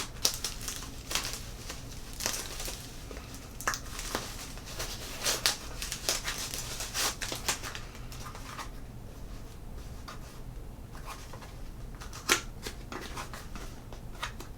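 Packaging being handled and opened: rustling and crinkling with scattered clicks and taps, busier in the first half and quieter for a few seconds before a sharp click near the end.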